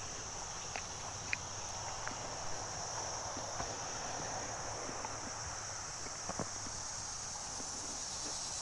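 Crickets chirring steadily at a high pitch, with scattered footsteps.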